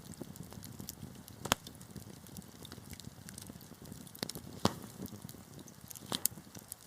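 Wood fire crackling in a fireplace: a steady run of small ticks and crackles over a low rush of flame. Sharp pops come about a second and a half in, again just past the middle, and once more near the end.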